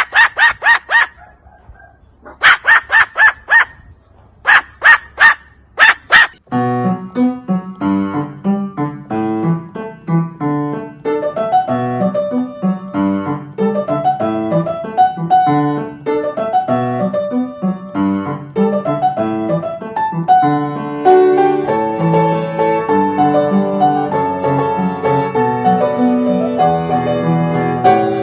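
Three quick runs of loud, sharp barks, four or five to a run, in the first six seconds. Then piano music plays to the end.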